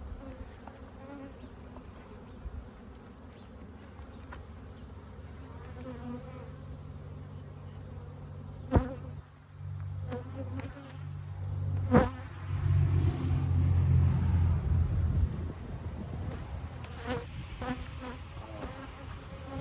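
A dense colony of honeybees buzzing around an opened hive, a steady low hum that swells louder for a few seconds about twelve seconds in. Two sharp knocks stand out, one just before the middle and one as the buzz swells.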